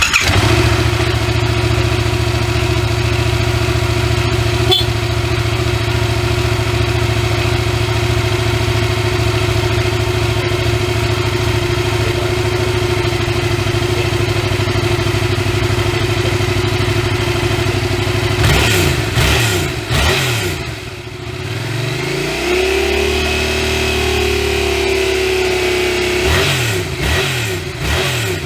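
Yamaha MT-07's 688 cc parallel-twin four-stroke engine idling steadily, then revved and released several times about two-thirds of the way in. It holds a slightly higher idle for a few seconds and is revved again near the end.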